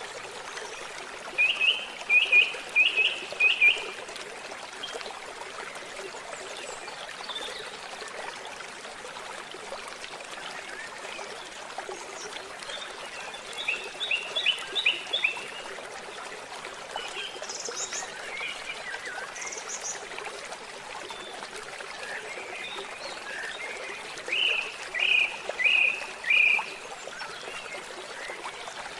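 Forest ambience: a stream trickling steadily, with a bird giving a short run of quick, loud chirps three times (near the start, midway and near the end) and a few fainter, higher chirps in between.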